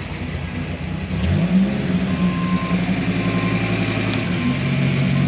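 Dodge Viper's V10 engine running after a jump-start from a dead battery; about a second in the revs rise quickly and then hold at a steady higher speed. Short, evenly repeated beeps like a reversing alarm join from about two seconds in.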